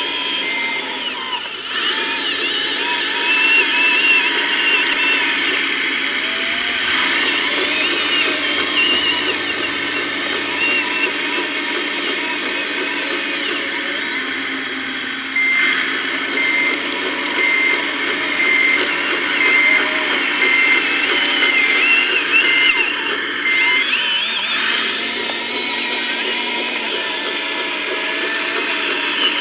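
Radio-controlled scale construction machines working: the electric motors and gearboxes whine steadily, their pitch rising and falling as the models move. An evenly repeating reversing beeper sounds briefly at the start and again from about halfway for some eight seconds.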